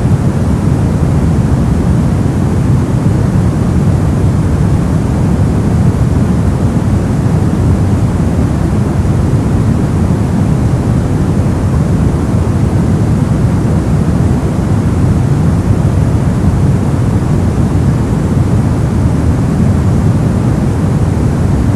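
Steady, loud brown noise: an even rumbling hiss, strongest in the bass and fading toward the treble, with no change or events.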